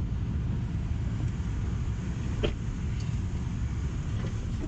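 Car driving with a steady low rumble, and a single knock about two and a half seconds in.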